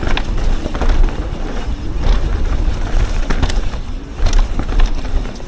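Yeti SB 150 mountain bike riding fast over a rough trail: wind rumbling on the microphone, with many sharp knocks and rattles from the bike on the uneven ground.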